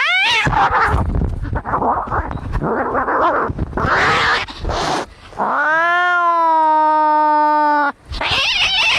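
Angry cats fighting: a short rising yowl, then harsh hisses and snarls, then one long, steady caterwaul lasting about two and a half seconds, then more hissing near the end.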